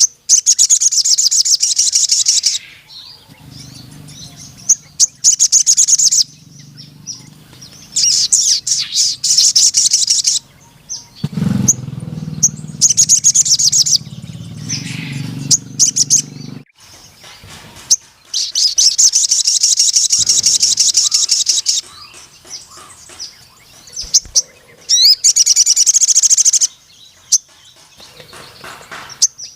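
Male crimson sunbird singing in loud bursts of very fast, high, buzzy trilling, each lasting one to three seconds, about six bursts with short pauses between. A faint low hum lies underneath through the middle.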